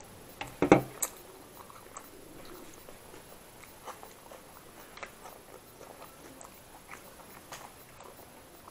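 Close-miked eating: a loud crunchy bite a little under a second in, then quieter chewing with scattered small mouth clicks.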